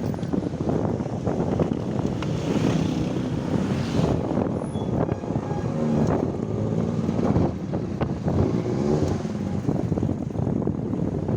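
Wind rumbling on the microphone during a ride in street traffic, with vehicle engines passing, most clearly about six and nine seconds in.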